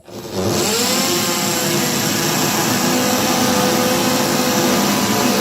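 An electric power tool's motor spins up, rising in pitch over the first second, then runs steadily at full speed with a loud hiss.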